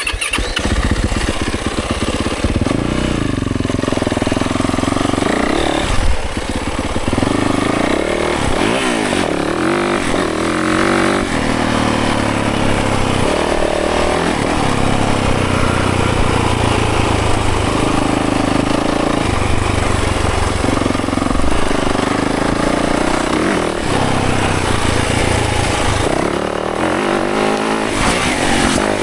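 Dirt bike engine revving up and down as it is ridden hard, its pitch rising and falling every few seconds.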